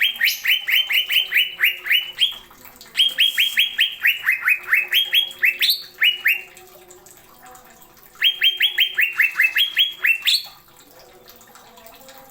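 Cucak ijo (green leafbird) singing in rapid volleys of sharp, falling whistled notes, several a second, the 'nembak' shooting style. Three volleys, each a couple of seconds long, with short pauses between them.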